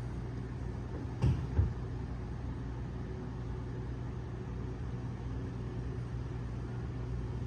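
Steady low hum, with two dull knocks close together a little over a second in.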